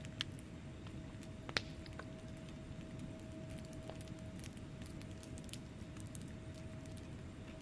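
Wood fire burning in a fireplace: a low steady rumble with scattered small crackles and pops, two sharper pops in the first two seconds.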